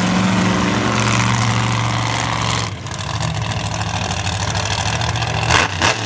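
Monster truck engine running steadily at low revs, its note dropping briefly a little under three seconds in, with two short sharp bangs close together near the end.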